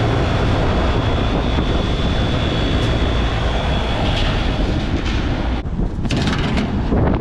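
Rooftop packaged air-conditioning unit running with only its first compressor stage on: a steady fan-and-compressor roar, with a faint steady whine that stops about four seconds in.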